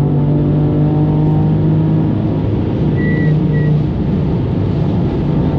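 Car engine running at a fairly steady speed, loud and close.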